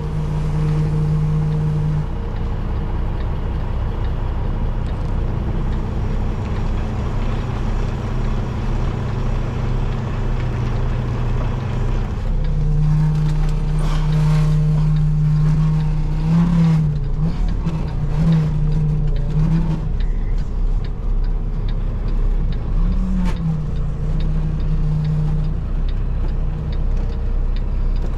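Semi truck's diesel engine running at low speed while reversing, a steady drone whose note steps up and bends upward briefly a few times in the second half as the throttle is applied.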